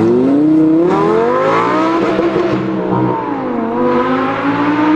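A race car engine revving. The pitch climbs for about two seconds, holds, dips about three and a half seconds in, then rises again near the end.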